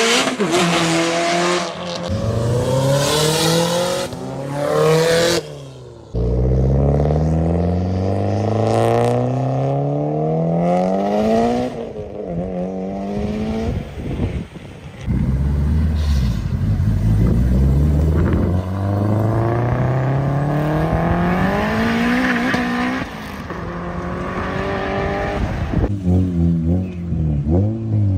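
Japanese performance car engine accelerating hard through the gears. The pitch climbs steadily, drops back at each upshift and climbs again, with abrupt breaks about six seconds in and near the end.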